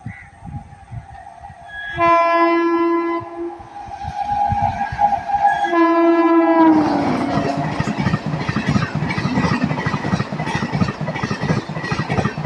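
An Indian Railways locomotive horn sounds about two seconds in and again near the middle, and its pitch drops as the locomotive passes. An express train then rushes past at speed, with rapid clatter of wheels over the rail joints.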